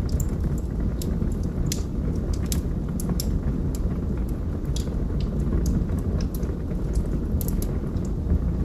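Wood fire burning in a fireplace: a steady low rumble of flames with irregular sharp crackles and pops from the burning logs, several a second at times.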